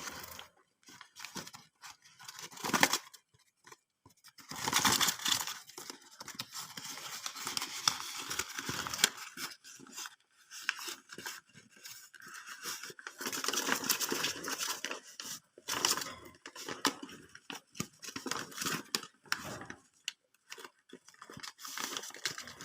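Paper and tape wrapping of a bird shipping sleeve being torn open and crumpled by hand, in irregular ripping and rustling bursts with short pauses.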